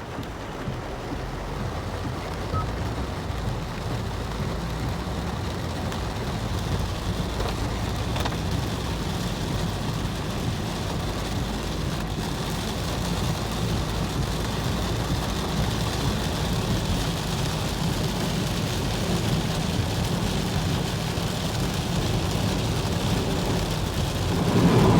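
Heavy rain and water hissing around a moving car, heard from inside the cabin, over the car's steady low rumble as it drives through flooded road.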